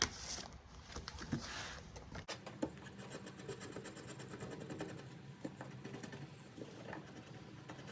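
Faint scratching and rustling of paper being handled, with a few light taps scattered through it.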